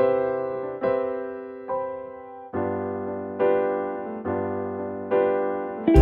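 Background music: an electric piano playing slow chords, a new chord struck a little under once a second and each one fading away before the next.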